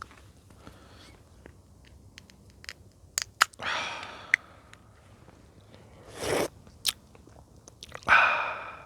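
A person's breathy exhales, three of them a couple of seconds apart, with a few sharp clicks in between.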